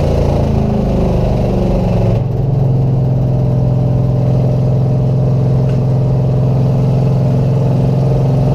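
Race car engines running loud, with the pitch rising and falling for the first two seconds as they rev, then one engine note held steady for the rest.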